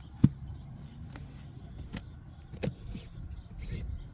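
Handling noises: a sharp click about a quarter second in, then a few lighter clicks and knocks over a low, steady rumble.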